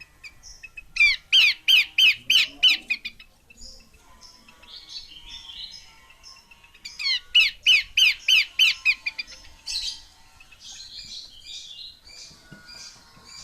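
Female Abbott's babbler calling: two loud runs of about ten rapid, arcing notes, roughly five a second, with softer chattering notes between and after.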